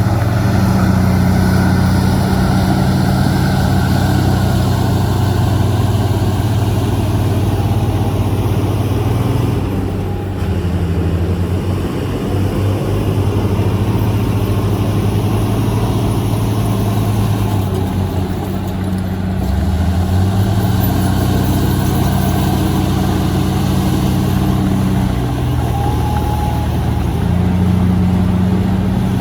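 Heavy diesel engines of a bulldozer and dump trucks at work, running loud and steady, with the engine note shifting up and down several times as the load changes.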